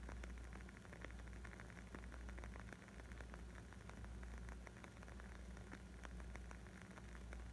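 Wood fire crackling: a dense, faint patter of small sharp pops and snaps from burning wood, over a steady low rumble.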